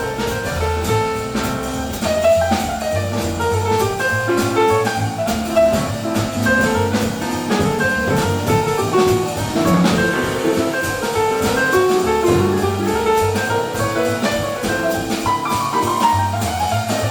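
Jazz quintet playing live: double bass and drum kit with cymbals under a melodic line of short, quick notes.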